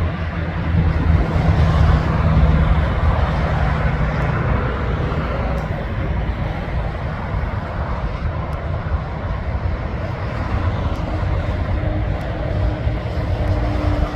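A heavy truck's engine running loudly as it passes, loudest about two seconds in, then fading into steady traffic and tyre noise.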